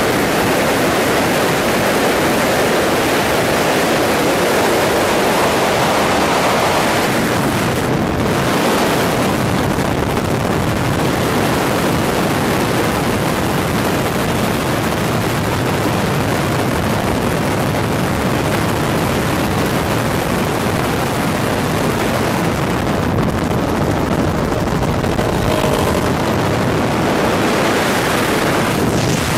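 Loud, steady roar of a helicopter in flight, with wind rushing over the microphone.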